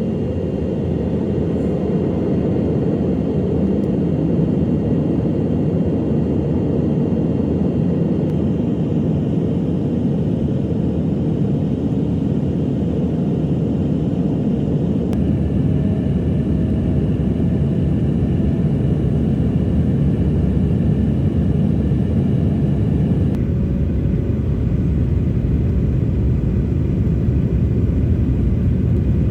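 Airliner cabin noise: a steady, loud low rumble of the engines and airflow, heard from inside the cabin in flight.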